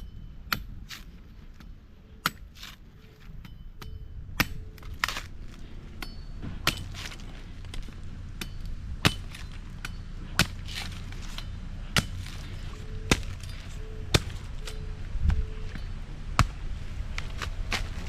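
Sharp knocks repeating about every one to one and a half seconds, over a low steady hum.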